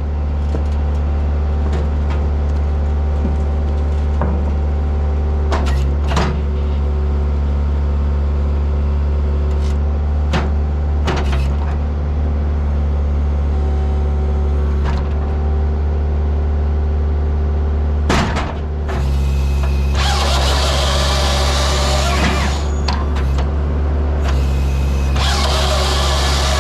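Skid steer's diesel engine running steadily while powering a firewood processor, with a few scattered clanks. Two harsh bursts of two to three seconds each come near the end, as the processor's saw chain cuts through logs.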